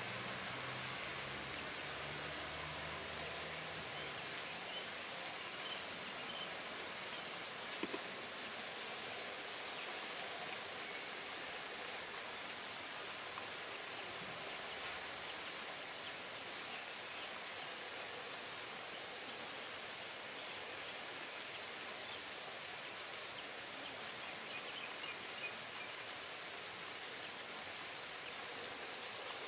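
Steady rain falling on garden foliage, an even hiss, with a few faint high chirps and a single soft tick about eight seconds in.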